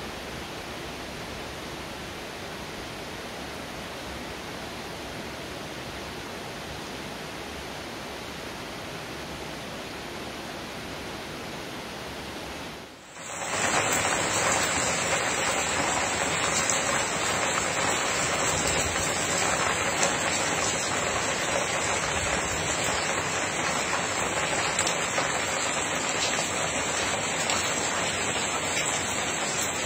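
Steady rain falling. About 13 seconds in, after a brief dip, it becomes louder and closer: rain falling on a tiled patio and reed fencing.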